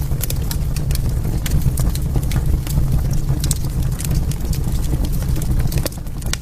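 Wood fire burning in a fireplace: frequent, irregular crackles and pops over a steady low rumble of the flames.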